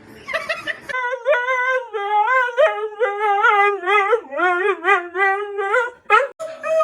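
A single high voice holding a long, unbroken, wavering tune, rising and falling in small swoops for about five seconds.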